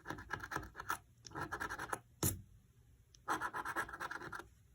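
Lottery scratch-off ticket being scratched in three bursts of quick scraping strokes, with a single sharp tap between the second and third.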